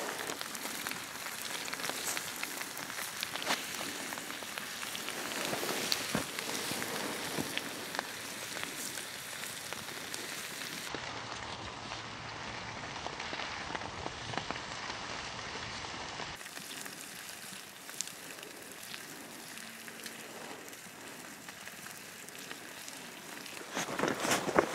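Campfire crackling: a steady fine hiss dotted with many small pops.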